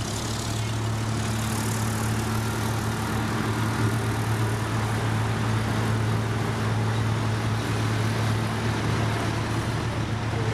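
Heavy diesel engine of road-paving machinery running steadily, a constant low hum.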